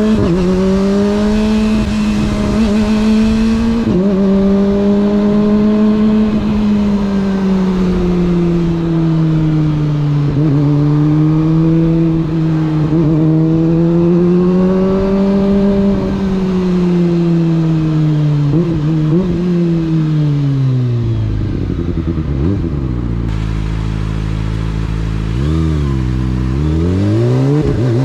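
Kawasaki sport motorcycle engine running under way, its pitch rising and falling gently with the throttle. About three-quarters through it drops to low revs, then revs up quickly near the end.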